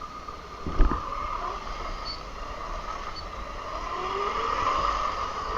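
Razor MX350 electric dirt bike running on 48 volts, its motor and chain drive making a steady high whine while it rides. There is a thump about a second in, and near the end the whine rises in pitch and grows louder as the bike speeds up.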